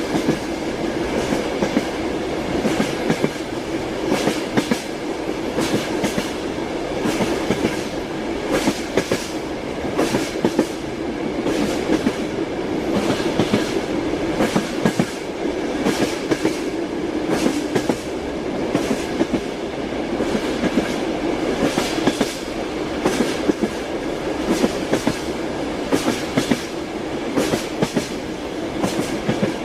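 Train wheels clattering over rail joints: a repeating clickety-clack of knocks in small groups about every one to two seconds, over the steady rumble of the moving carriage.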